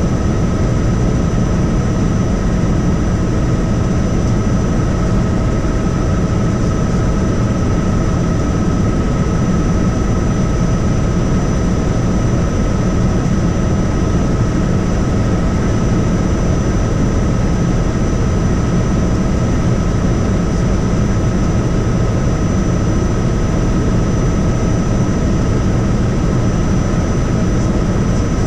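Helicopter in steady flight: its engine and rotor make an unbroken low drone, with a constant whine held on top.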